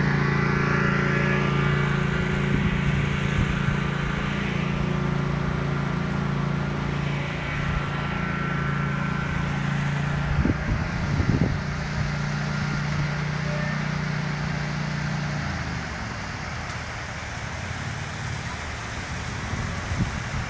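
A motor running with a steady hum, which stops about fifteen seconds in, with a couple of brief knocks shortly before.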